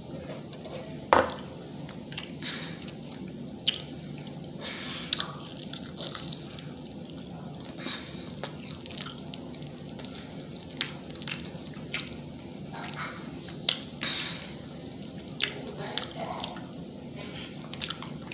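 Close-miked eating of chicken wings: wet biting, chewing and lip-smacking, with sharp mouth clicks every second or so over a steady low hum.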